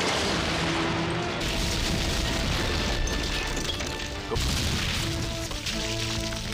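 Stone breaking and crumbling sound effect: rumbling crashes of rock that grow heavier about a second and a half in and surge again about four seconds in. Background music with held notes plays under it.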